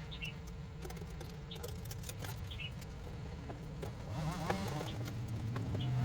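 Scattered light clicks and taps over a steady low hum, typical of small parts being handled at a workbench.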